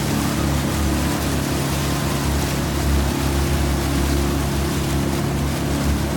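Motorboat engine running steadily at an even speed, a constant low hum with water and wind rush over it.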